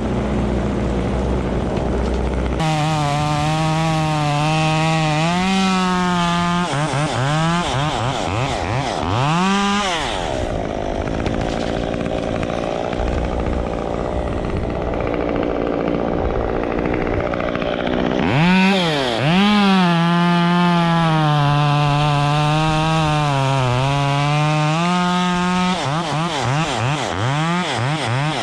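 Chainsaw running at high revs while cutting wood, its pitch sagging and recovering under the load, with quick throttle blips between cuts and a rougher stretch in the middle.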